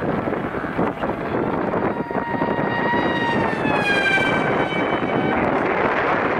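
Electric motor and propeller of an RC Spiderwing flying wing whining as it passes at speed, the pitch dropping around four seconds in and then fading out. Wind buffets the microphone throughout and gets stronger near the end.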